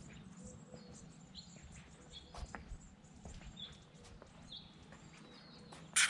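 Small birds chirping and calling outdoors, with faint footsteps on concrete. A brief, loud rustling scuff comes near the end.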